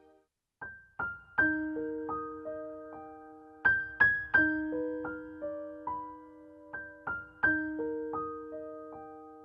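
Background piano music: a slow melody of single struck notes that ring and fade, starting about half a second in after a brief silence.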